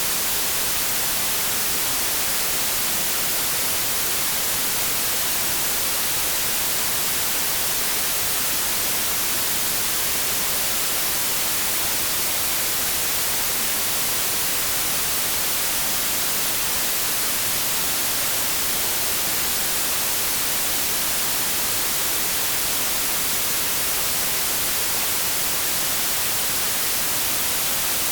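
Continuous generated white noise: an even, steady hiss, strongest in the treble, that never changes in level.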